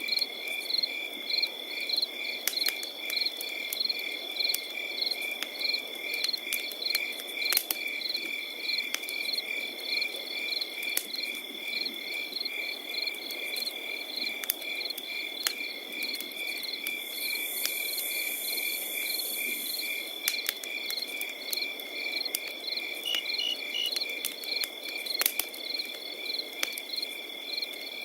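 Crickets chirping in a steady pulsing chorus over a crackling campfire, with sharp pops from the fire now and then. A higher insect trill joins for a few seconds in the middle.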